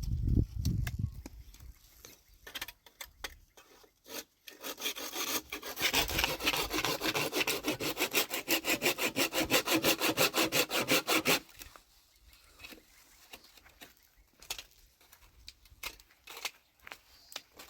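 Hand saw cutting through wood in quick, even strokes, about five a second, starting about five seconds in and stopping abruptly some six seconds later. Scattered knocks and rustles of handling come before and after.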